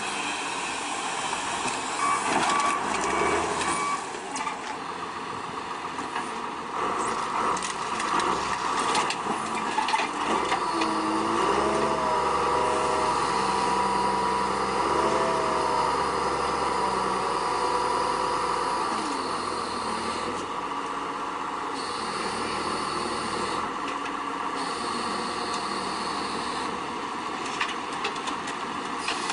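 Heavy diesel truck and loading equipment running steadily, with a whine that rises and falls in pitch about a third of the way in.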